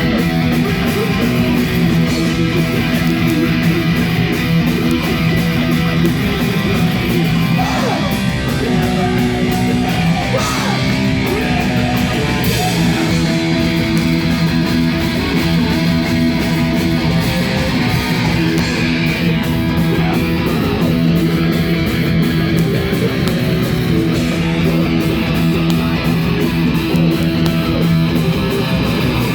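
Live rock band playing loud, heavy music: electric guitars and fast drums in a dense, unbroken wall of sound, recorded in the room at full volume.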